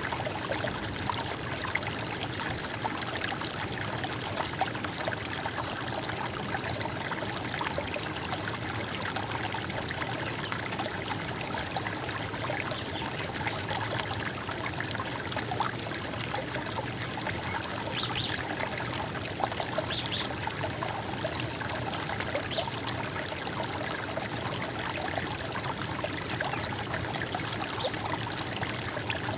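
Running water in a stream, a steady gurgling flow with no let-up.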